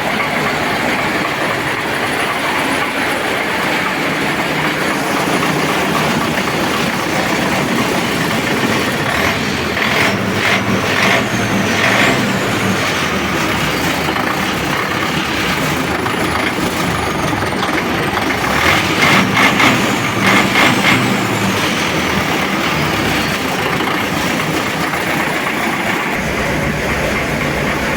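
DT-75 crawler tractor's diesel engine running steadily while its freshly repaired engine runs in to seat new piston rings. Twice, about ten and about nineteen seconds in, a spell of louder clattering rises over the running.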